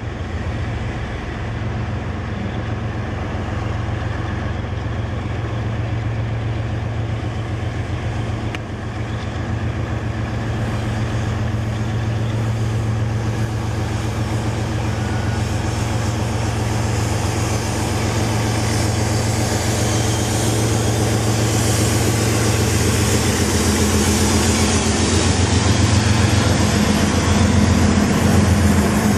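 Diesel-electric freight locomotives approaching and passing close by, their engines droning steadily and growing louder. Over the last several seconds the rush of wheels on rail rises as the units and first cars go by.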